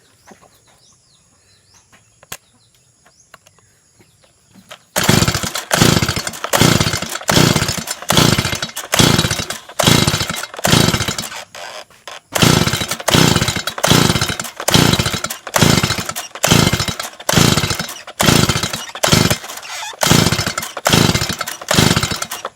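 Stihl MS 170 two-stroke chainsaw engine, quiet at first, then running loud about five seconds in and revved in quick, regular blips, a little more than one a second, each surge rising sharply and falling away, with a short break near the middle.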